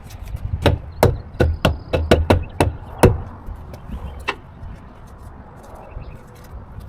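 A quick run of about nine sharp knocks in the first three seconds, over a low steady rumble, then only the rumble and a few faint clicks.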